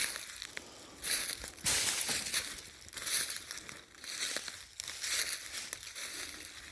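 Footsteps crunching on the frozen forest floor, a crisp crunch with each step, about one step a second or a little faster.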